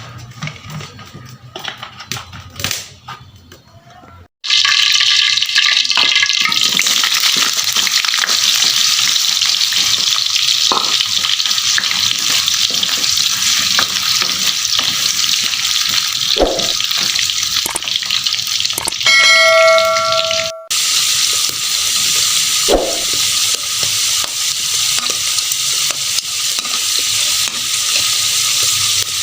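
Food hits hot oil in a pan about four seconds in and sizzles steadily, with scrapes and knocks of a utensil stirring it. A brief ringing tone sounds about two-thirds of the way through.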